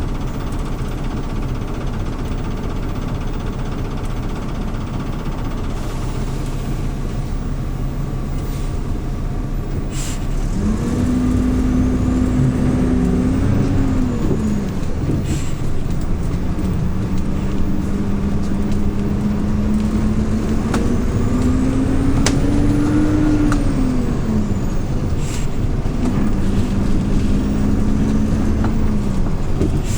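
Hyundai New Super Aero City CNG city bus engine heard from inside the bus. It runs steadily at low revs for about ten seconds, then the bus pulls away and the engine note climbs in pitch as it accelerates, falling back three times. A few sharp clicks and rattles come through now and then.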